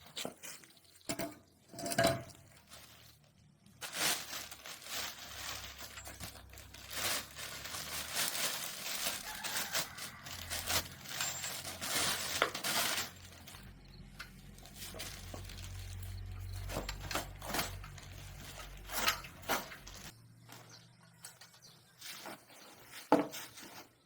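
Metal tools and small metal parts clinking and knocking during hand work on a motorcycle, with irregular sharp clicks and short scraping bursts. A low hum runs underneath for several seconds past the middle.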